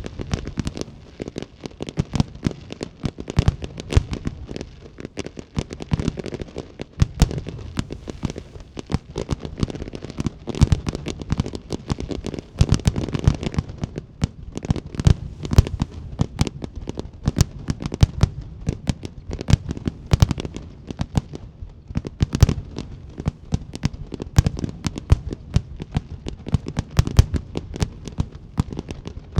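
Aerial fireworks display: a dense, unbroken barrage of shell bursts, several bangs and crackles a second, over a constant low rumble.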